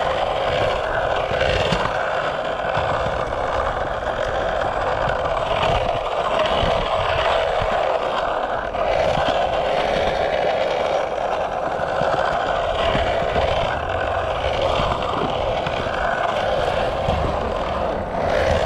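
Skateboard wheels rolling steadily on concrete, a continuous rolling noise with a few faint knocks and scrapes.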